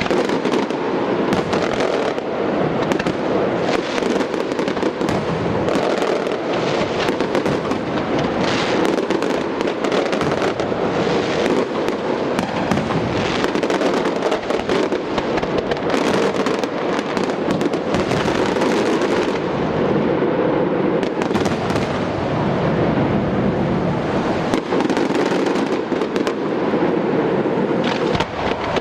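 Fireworks display going off in a continuous barrage, many sharp reports overlapping over a steady rumble with no break.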